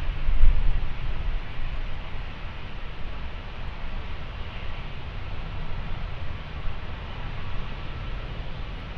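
Jet airliner engines rumbling as the aircraft passes, the sound fading steadily as it moves away.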